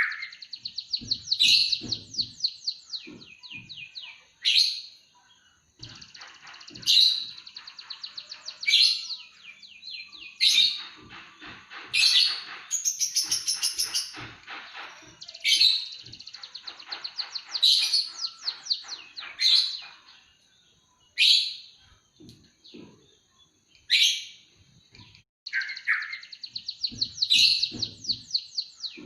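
White-headed munia (emprit kaji) singing a canary-like song: phrases of fast rattling trills and sharp high chirps, separated by short pauses. Faint low knocks come in between the phrases.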